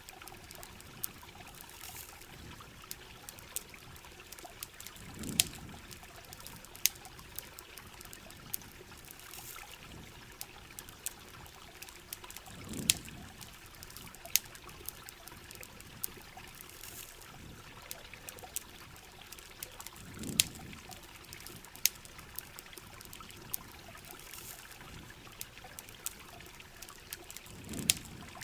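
Heavy rain with a crackling campfire: a steady wash of rain and trickling water, sharp pops scattered throughout, and a low swell that comes back about every seven and a half seconds.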